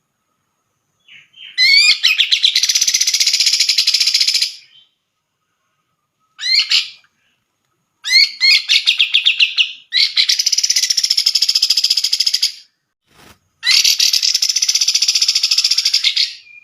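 Grey-cheeked bulbul (cucak jenggot) singing loudly in bursts of rapid, chattering song. There are four phrases of about two to three seconds each, several opening with quick rising notes, and a short half-second phrase between them.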